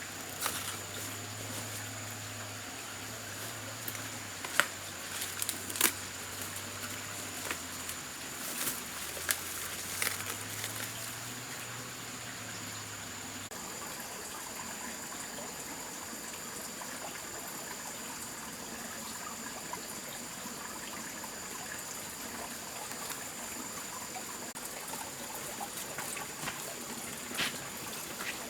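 Water trickling steadily, with a few sharp knocks in the first half and a steady high-pitched whine throughout.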